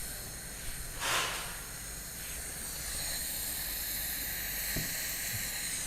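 Pressurised cleaning jet hissing on a headlight's rubber seal: a short blast about a second in, then a steady hiss.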